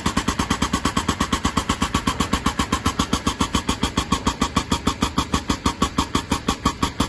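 Air-driven hydraulic pump powering a 45-ton hydraulic cylinder, pumping in a rapid, even pulse of about seven strokes a second as the cylinder presses on the spring bolt.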